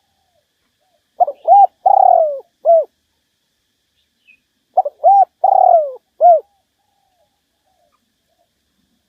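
Spotted dove cooing: two phrases about three and a half seconds apart, each a few short coos around one longer note that falls in pitch.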